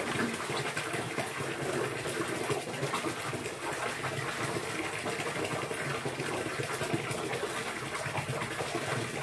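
Steady rushing of running water, an even hiss with no distinct strokes or calls.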